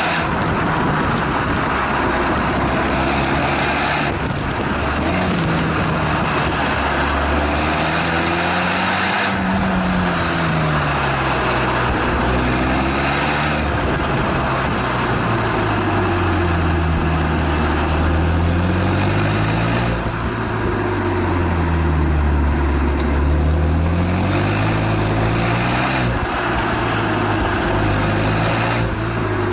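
Renault Mégane Estate GT220's exhaust, heard from the rear of the car at speed. The engine note climbs and falls in pitch several times, over a steady rush of wind and road noise.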